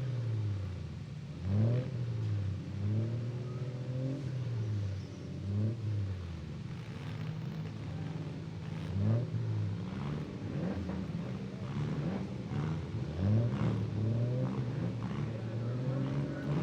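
Several demolition derby minivan, mini truck and SUV engines revving up and down at once, their pitch rising and falling over and over as the cars accelerate and back off.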